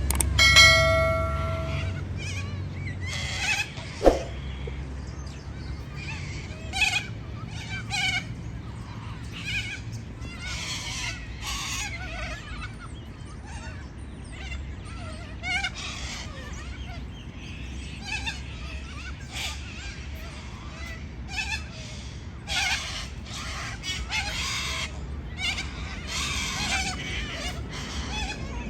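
Parrots calling in many short, high squawks and chirps, scattered irregularly, with one long, steady-pitched call at the start. A sharp knock sounds about four seconds in.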